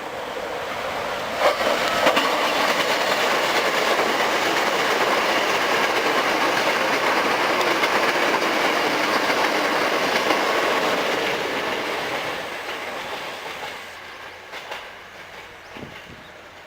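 Hankyu 5300 series resistance-controlled electric train pulling into a station: wheel and rail noise, with a couple of sharp clacks as it comes in, loud for about ten seconds. It then dies away as the train brakes to a stop.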